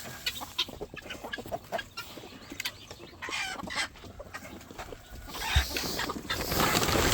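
A flock of chickens clucking, with many short calls overlapping; the sound grows louder and denser from about five seconds in.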